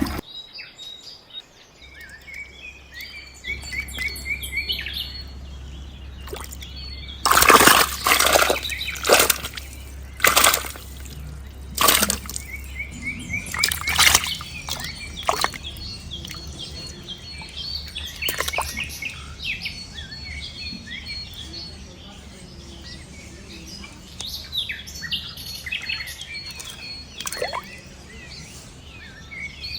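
Small birds chirping again and again over a low steady hum, with a cluster of loud sudden noises in the middle.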